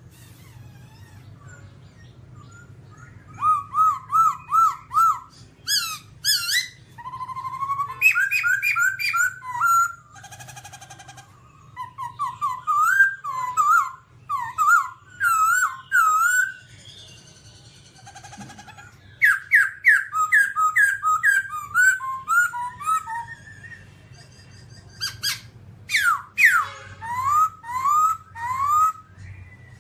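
Laughingthrush singing: loud phrases of quick repeated whistled notes and sharp sweeping calls, broken by short pauses, over a faint steady low hum.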